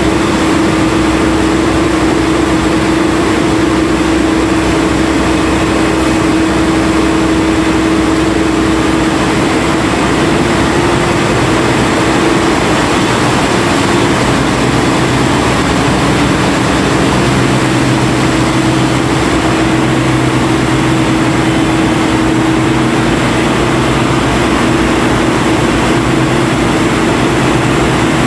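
Engine machinery of an ore-suction dredge boat running steadily and loudly, with a constant hum; a lower hum joins about two-thirds of the way through.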